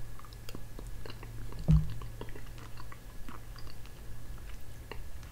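A person eating soft gelatin from a spoon: quiet chewing and mouth sounds with scattered light clicks, and one short low sound about a second and a half in.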